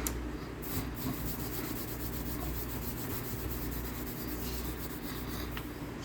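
Dry cornstarch crunching and rubbing: a fine, gritty crackle that runs on steadily, with a couple of sharper clicks near the start.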